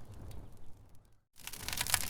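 Wood fire crackling, with sharp pops over a low rumble. About a second in the sound cuts out briefly, then the crackling comes back louder and denser.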